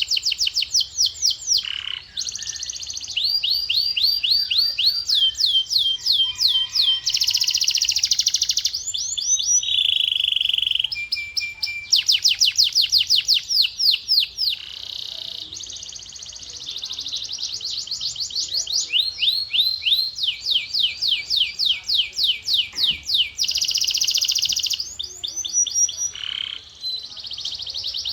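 Male canary singing a long song of rapid repeated falling notes in changing runs, with a few short steady whistled tones between them.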